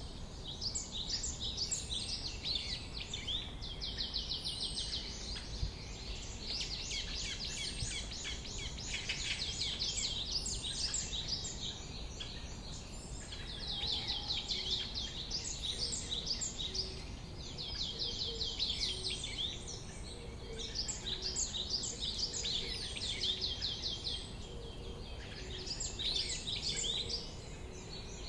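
Songbirds singing in quick runs of high chirps, a new phrase every second or two, with several birds overlapping at times, over a steady low background rumble.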